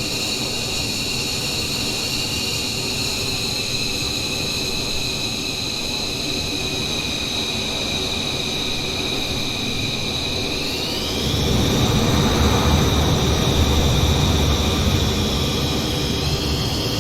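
F-15 jet engines running with a steady high whine over a rumble; about eleven seconds in the whine rises in pitch and the deep rumble grows louder as the engines spool up.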